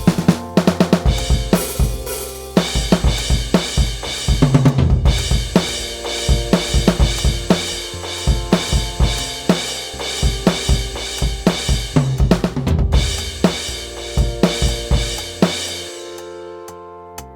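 Music with a full drum kit playing a busy beat: kick, snare, cymbals and hi-hat over pitched instruments. It fades away near the end.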